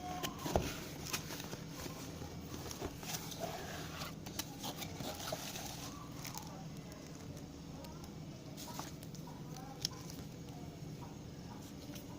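Scattered clicks and rustles of packaging and box contents being handled while a thermal printer set is unpacked, over a steady low hum.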